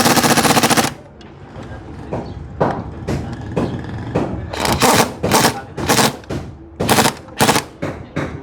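Pneumatic impact wrench rattling: one long burst at the start, then several short bursts in quick succession near the end, as nuts are run off or tightened on the car's suspension.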